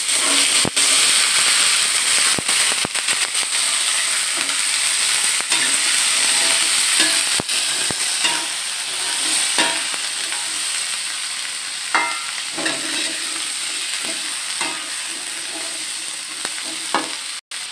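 Long beans frying in hot oil in a wok with shallots, garlic and chilli: a dense sizzle that starts suddenly as they go in, is strongest at first and slowly eases. A spatula scrapes and clicks against the wok as the beans are stirred.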